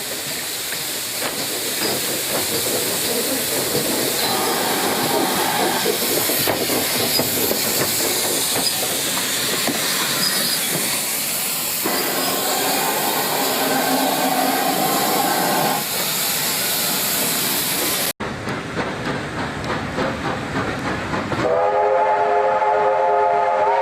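Steam locomotive with a heavy, steady hiss of escaping steam that breaks off suddenly about eighteen seconds in. Rail clatter follows, then a steam whistle sounds a chord of several notes held to the end.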